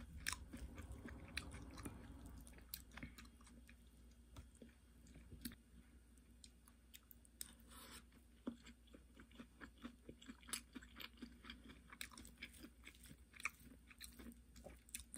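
Faint chewing of fried rice, with scattered small clicks of a spoon against the bowl.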